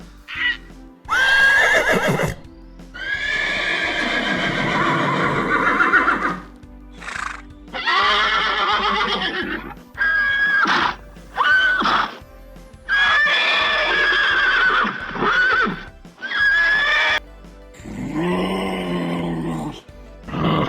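Horses neighing and whinnying in a run of about ten calls. Some calls are short and some long and quavering, and a lower call comes near the end.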